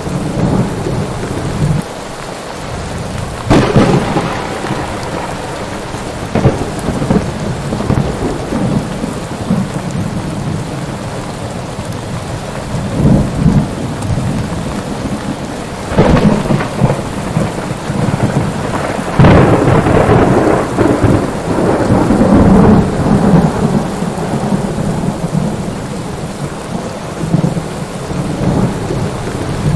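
Thunderstorm: steady heavy rain with repeated thunder, sharp cracks about three and a half seconds in, near the middle and a few seconds later, each followed by a long rolling rumble.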